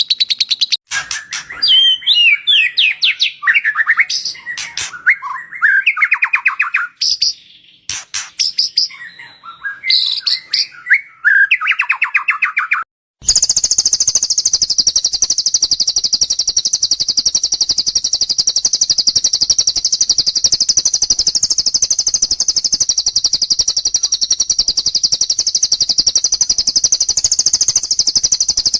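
Recorded songbird calls from a bird-training track: for about the first half, varied, fast-changing chirping phrases and sharp clicks, then an abrupt cut to one long, unbroken, very high-pitched rapid trill that continues to the end.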